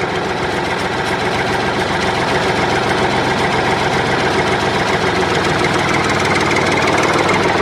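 Tractor engine idling steadily with a fast, even chugging beat.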